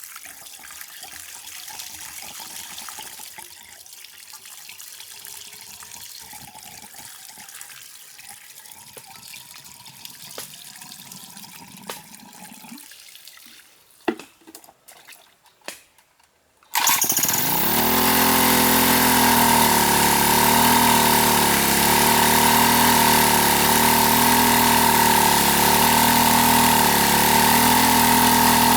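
Faint water trickling with a few clicks, then about seventeen seconds in a loud, steady motor starts abruptly and runs at an even pitch.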